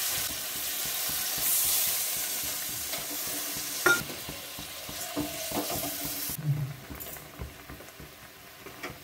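Spice paste frying in hot oil in a pan, sizzling, with a single utensil knock about four seconds in. The sizzle drops off sharply after about six seconds as water poured into the pan cools it.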